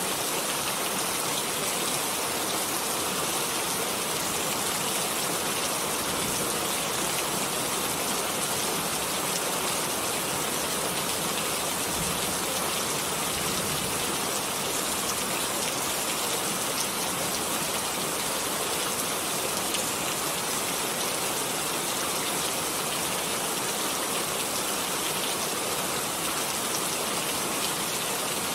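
Steady rain: a dense, even hiss of falling rain and raindrops hitting a surface, without pauses or changes.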